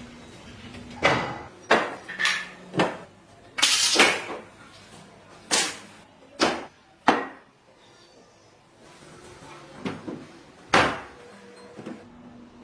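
About ten irregular knocks and short noisy bursts, one of them longer about four seconds in, with a lull of about two seconds before the last few.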